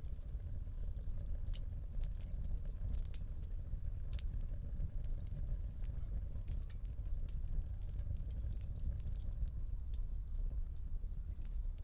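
Wood fire burning in a fireplace: a steady low rumble of flames with many quick, irregular crackles and pops.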